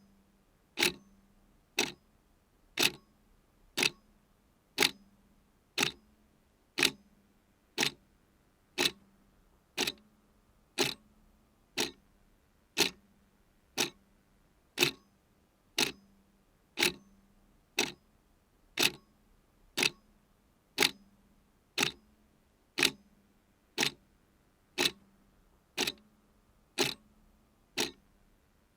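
A mechanical clock ticking steadily, about one sharp tick a second, each tick with a brief ring after it.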